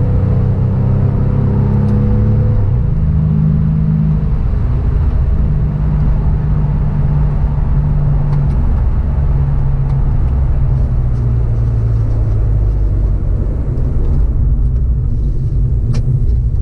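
Porsche 911 (996) flat-six engine heard from inside the cabin while driving, steady and loud, its pitch shifting to a new level several times, over low tyre and road rumble.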